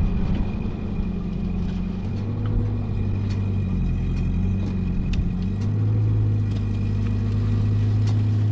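An engine running steadily at low revs, its note growing louder about five and a half seconds in.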